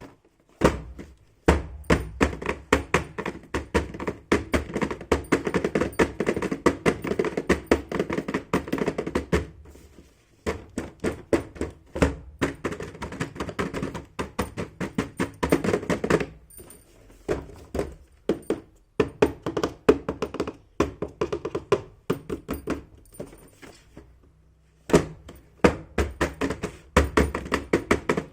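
Small plastic toy pieces being handled and unpacked: rapid runs of taps, clicks and light clunks, stopping briefly now and then.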